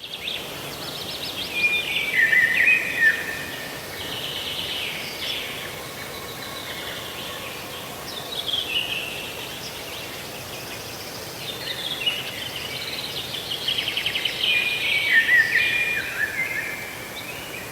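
A songbird singing: phrases of rapid trills that step down in pitch, repeated several times with pauses between, over a steady background hiss.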